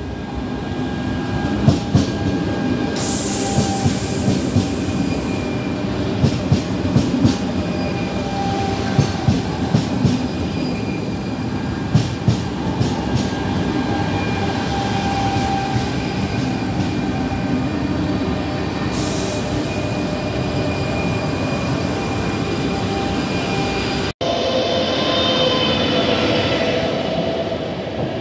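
ČD Pendolino electric tilting train running past the platform, its wheels clicking in quick groups over the rail joints, with two short hisses. After a cut near the end, a train of passenger coaches rolls by with wheels squealing and clattering.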